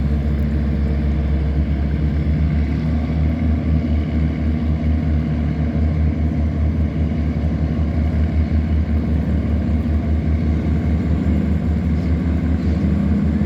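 Tugboat's diesel engine running steadily while towing a cargo barge, a low, fast-pulsing drone.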